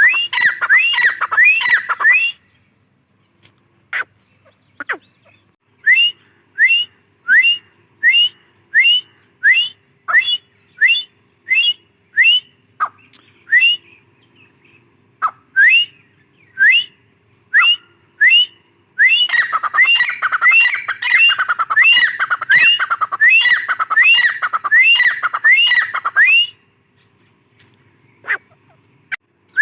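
Grey francolin calling: loud, sharp, rising notes repeated over and over. Near the start and again for several seconds past the middle they pile up into a fast, overlapping run; in between they come singly, about two a second.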